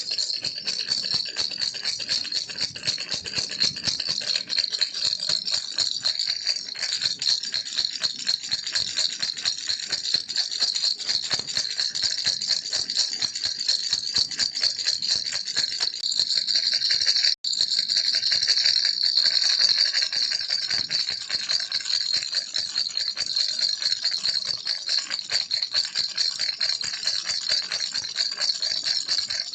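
Baby rattle toy shaken continuously in a fast, dense, bright rattle. It breaks off for an instant about two-thirds of the way through, then carries on.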